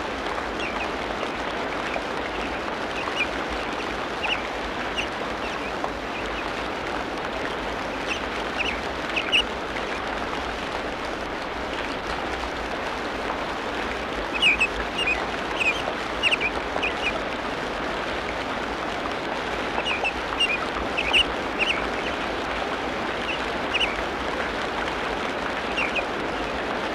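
Tropical rainforest ambience: a steady hiss under short, sharp bird calls that come in scattered clusters.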